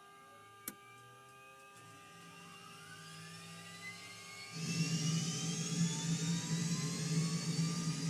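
Blue Angels jet engine spooling up: a turbine whine rises steadily in pitch, then a louder rush with a low hum comes in suddenly about halfway through.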